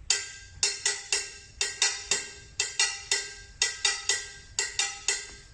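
Metal cooking pot struck with a pair of spoons in a repeating rhythm of quick strokes, each with a short metallic ring. It stands in for a shime daiko, the small high-pitched Japanese drum.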